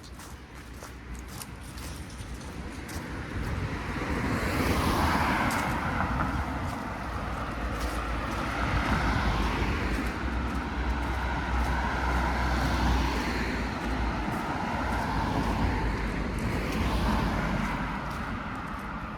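Cars passing one after another on a city street. The tyre and engine noise swells and fades about every four seconds over a steady low rumble of traffic.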